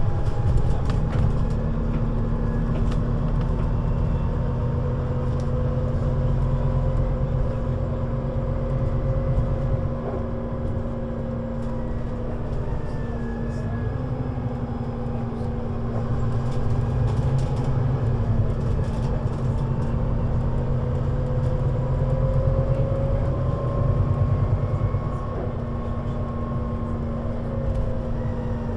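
Scania Citywide LFA bus (CN320UA 6x2/2) under way, heard from on board: the diesel engine drones steadily, with a whine from the driveline that rises and falls as the bus speeds up and eases off, and a few rattling clicks about a second in.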